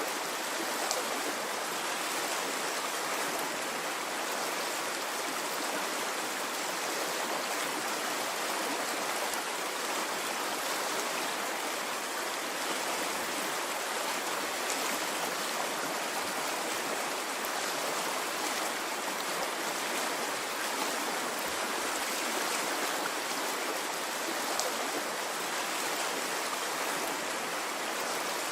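Stream water flowing and splashing in a steady rush, with no surges or pauses.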